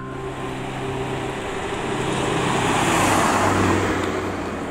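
A road vehicle passing on the street: traffic noise swells to a peak about three seconds in, then fades.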